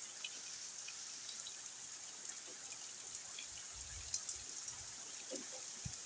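Steady rain falling, hitting a car and the porch, with scattered drops ticking. A faint low rumble comes about four seconds in.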